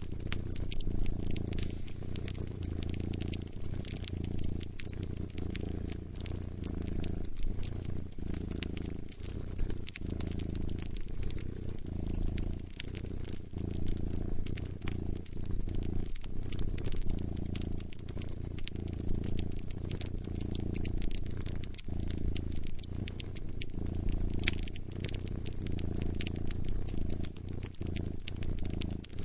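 A cat purring steadily in slow swells, low and close, mixed with the small pops and crackles of a burning wood fire.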